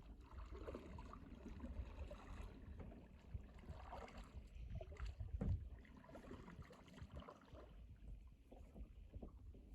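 Faint water sounds and small scattered knocks around a kayak on the river, a little louder about five seconds in.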